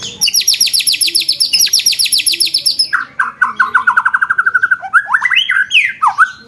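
Songbird singing a rapid rolling trill, the 'roll tembak' of a masteran recording: fast high repeated notes at about ten a second for some three seconds, dropping to a lower, similarly fast trill and ending in a few quick rising and falling whistled slurs.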